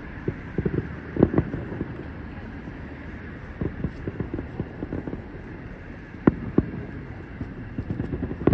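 Distant fireworks bursting as irregular thumps and pops, several in quick clusters, over a steady background of wind noise on the microphone.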